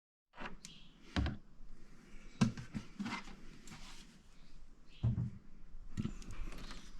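Scattered clicks and knocks of things being handled, with sharper knocks about a second in, about two and a half seconds in and about five seconds in.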